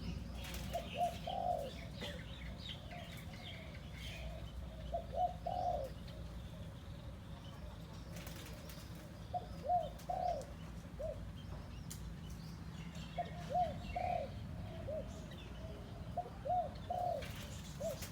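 A decoy dove cooing: short phrases of a few quick arched coo notes, repeated about every three to four seconds. Fainter high chirps of small birds come in between.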